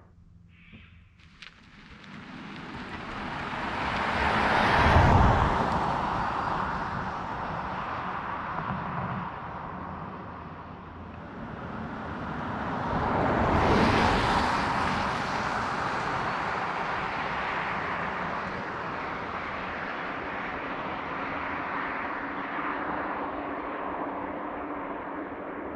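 2022 Polestar 2 Long Range Single Motor electric car going past twice, its tyre and road noise swelling up and fading away each time, about five and fourteen seconds in, then running on more steadily.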